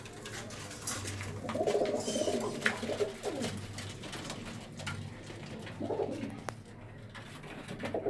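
Domestic pigeons cooing: a long run of low cooing about a second and a half in, then shorter coos near the middle and near the end, with a few sharp clicks among them.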